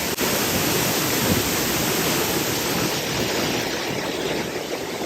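The 14-metre Malabsay waterfall crashing into its pool: a loud, steady rush of falling water.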